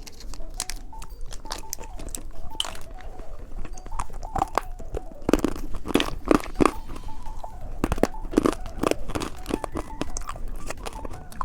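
Close-miked eating of a cheese-stick snack: irregular biting and chewing with sharp crunchy mouth clicks.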